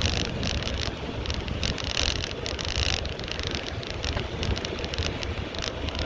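Wind buffeting the microphone of a moving bicycle, a low rumble under hiss from the tyres and road, with patches of brighter noise every second or so.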